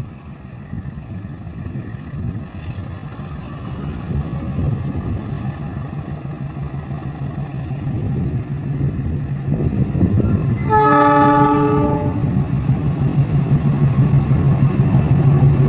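KAI CC206 diesel-electric locomotive approaching, its engine drone growing steadily louder. About two-thirds of the way in it sounds its horn once, a single blast of roughly a second and a half.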